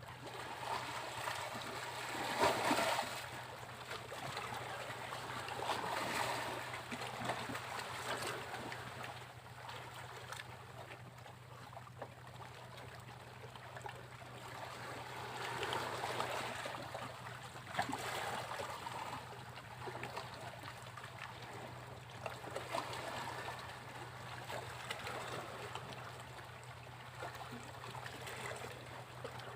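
Sea waves breaking and washing up a beach, the noise swelling and ebbing every few seconds, loudest about two to three seconds in and again near the middle.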